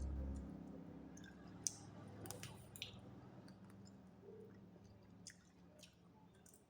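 A person chewing fried chicken: faint soft chewing with a few sharp mouth clicks scattered through.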